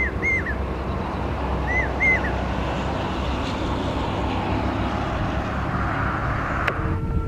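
Steady running noise of a train, with a low hum underneath, and a few short chirping bird calls in the first two seconds.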